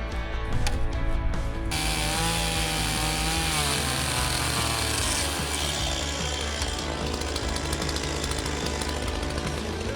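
Background music, joined about two seconds in by a chainsaw running and cutting, its pitch falling and wavering as it works.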